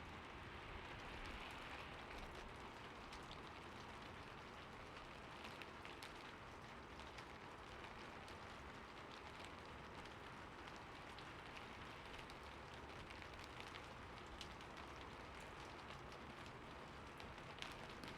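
Soft steady rain with many individual drops ticking on a surface.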